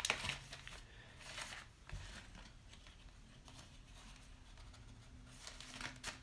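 Paper packaging and cards being handled and put away: faint rustling with a few louder crinkles near the start and near the end, and a soft thump about two seconds in.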